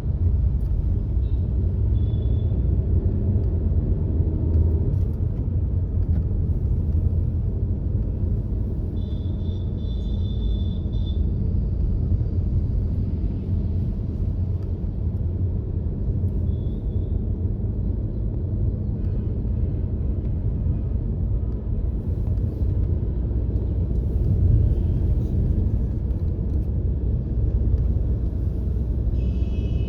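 Steady low rumble of a car being driven on a road: engine and tyre noise. A few brief high-pitched tones come through, the longest lasting about two seconds, one near the start and one just before the end.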